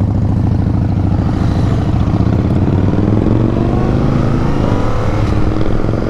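2022 Yamaha MT-07's 689 cc parallel-twin engine running steadily under way, heard from the rider's position, its pitch drifting slightly up and back as the revs change.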